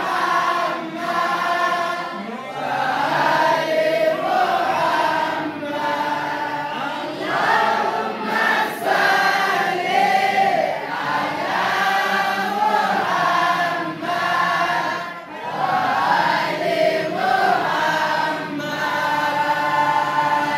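A group of voices chanting together in unison, in long melodic phrases with held, wavering notes.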